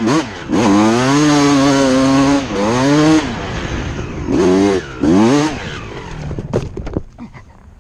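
Two-stroke dirt bike engine revving hard in several bursts, its pitch climbing and holding, then dropping between bursts. The sound fades away after about six seconds, with a few sharp clicks near the end.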